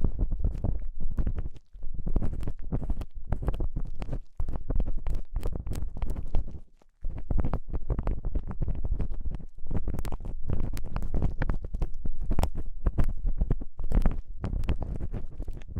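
Ear-cleaning tool scraping and rubbing close on the microphone's ear in quick, continuous, scratchy strokes with deep rumbling thuds under them, pausing briefly about seven seconds in.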